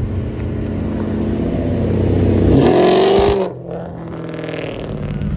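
A car engine running, then revved once about two and a half seconds in with a quick rise in pitch, and cut off sharply.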